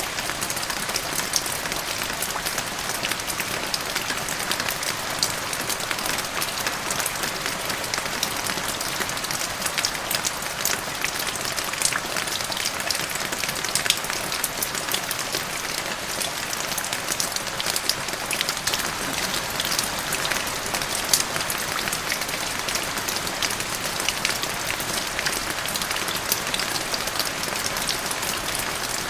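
Steady rain with raindrops hitting the ground: an even hiss dotted with many separate drop hits.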